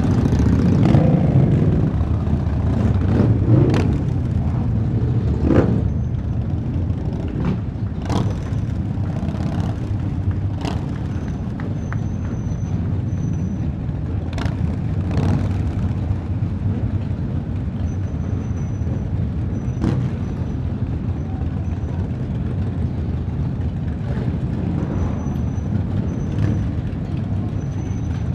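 Motorcycle engine running steadily under way, with wind rush over the bike, and a few sharp knocks scattered through it.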